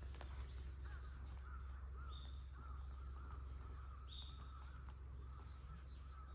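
Birds calling: a run of short, arched notes repeating a few times a second, with two sharper, higher chirps about two and four seconds in, over a steady low rumble.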